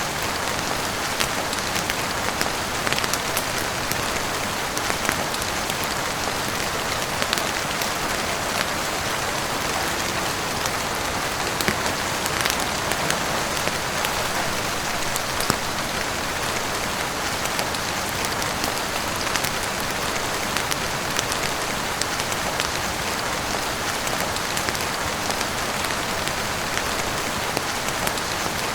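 Steady heavy rain falling on a roof, a dense, even hiss sprinkled with many small sharp ticks of individual drops.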